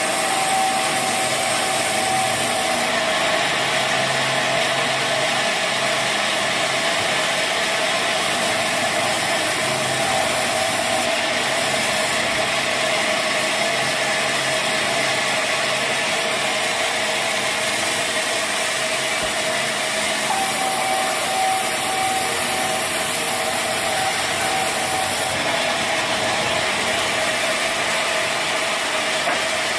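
Sawmill saw and machinery running steadily through a mahogany log, a loud continuous grinding noise. A thin whine is heard at the start and returns about two-thirds of the way through.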